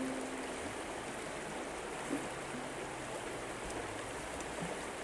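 Steady rain falling, an even hiss of noise, with the last held notes of music dying away in the first half second.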